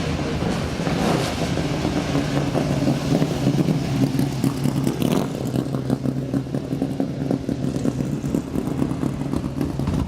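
Vintage race car engine running at a steady speed, holding one low note throughout.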